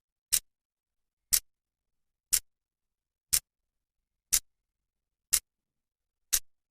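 Clock second hand ticking once a second: sharp, dry clicks evenly spaced with dead silence between them.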